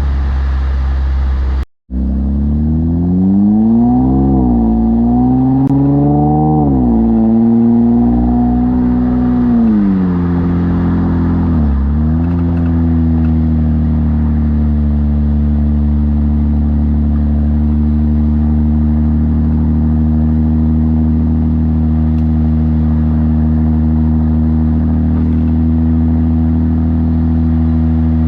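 Infiniti Q50 Red Sport 400's twin-turbo 3.0-litre V6, breathing through a Motordyne exhaust with AMS lower downpipes, running loudly: it cuts out for an instant about two seconds in, rises and falls in pitch a few times over the next ten seconds, then holds one steady pitch.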